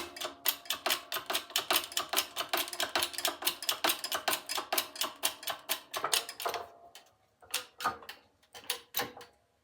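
Shop press being worked to push a tight axle bushing out of a Snapper mower's rear fender: a fast, even run of sharp clicks, about six a second, that thins to a few scattered clicks after about six and a half seconds.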